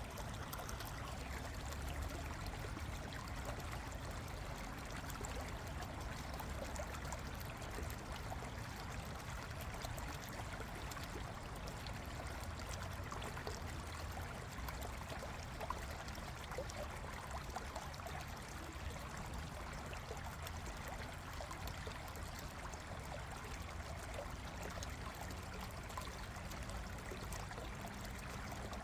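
Small stream flowing and trickling over its bed, a steady, unbroken babble of water.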